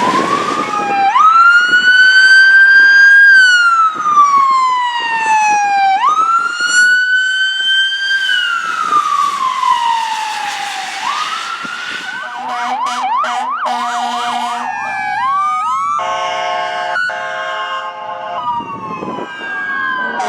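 Fire engine siren sounding in a slow wail, each cycle rising quickly and then falling slowly, switching about twelve seconds in to a fast yelp. Near the end, a steady air horn blast of several tones sounds before the wail comes back.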